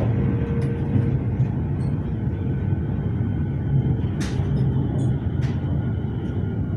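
Inside a Siemens Nexas electric suburban train running at speed: a steady rumble of wheels and running gear on the rails, with scattered light clicks and a sharper knock about four seconds in.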